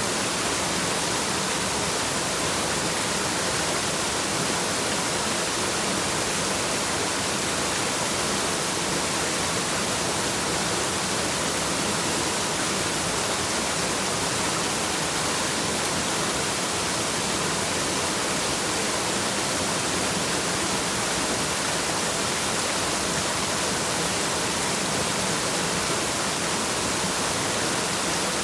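Waterfall rushing steadily: an even, unbroken hiss of falling water, heaviest in the high range, with no change in level.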